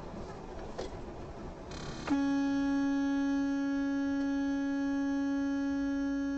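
Vehicle horn sounding one long, steady blast that starts suddenly about two seconds in, over road noise.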